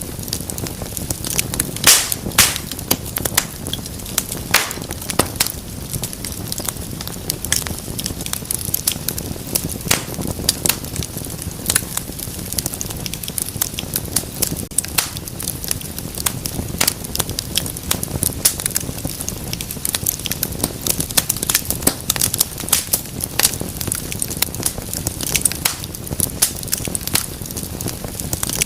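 Wood fire burning in a fireplace: a steady low rush of flame with frequent irregular crackles and sharp pops, the loudest pop about two seconds in.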